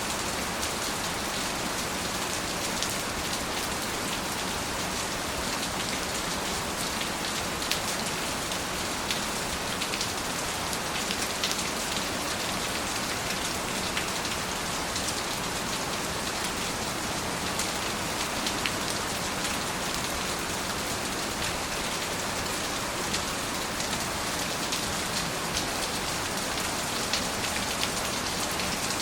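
Steady rain, with a dense hiss and many separate drops tapping on a surface.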